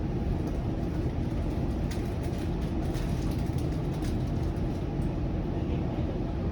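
Bombardier Flexity Outlook low-floor streetcar running along the track, heard from inside the car: a steady low rumble with a few light clicks in the middle.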